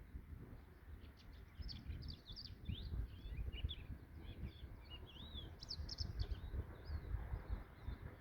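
Songbirds chirping and twittering in quick high notes, trills and short sliding calls, over a steady low rumble.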